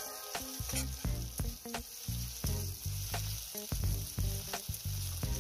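Crushed onion frying in hot mustard oil in a kadai on high flame: a steady sizzle, with a metal spatula scraping and knocking against the pan about twice a second as the onion is stirred down to soften.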